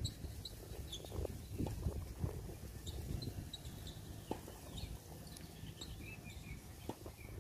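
Scattered short bird chirps over a low steady background rumble, with a few soft knocks.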